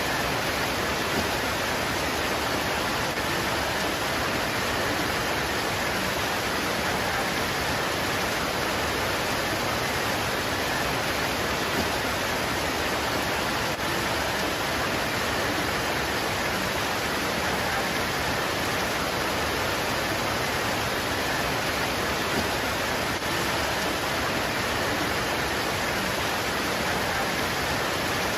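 Steady heavy rain pouring onto leaves: an even, unbroken hiss, with a few slightly louder taps at wide intervals.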